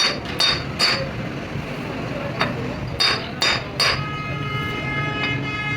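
Hammer striking metal, seven sharp blows in irregular groups, each with a short metallic ring. About four seconds in, a steady whine takes over.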